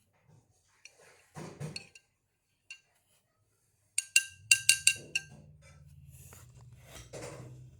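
A run of about eight quick, ringing clinks of something hard against a glass or ceramic dish, coming halfway through, with a softer rustle and knock before them. A low steady hum starts with the clinks.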